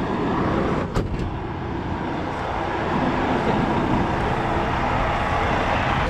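Steady road-vehicle and traffic noise, with a sharp click about a second in.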